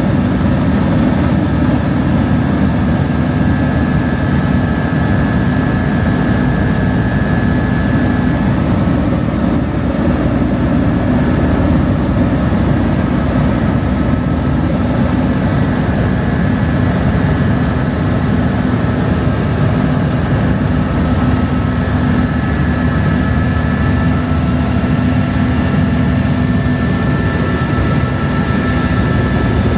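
Helicopter in flight: steady, loud rotor and engine noise with a constant low hum and a faint high whine, unchanging throughout.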